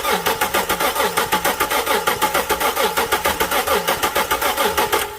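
Starter cranking a 2008 Dodge Charger's 3.5 L V6 over with the spark plugs out for a compression test, in an even, rapid pulse of about five or six beats a second that stops near the end. The cylinder under test reads only 120 psi: low compression from a damaged piston.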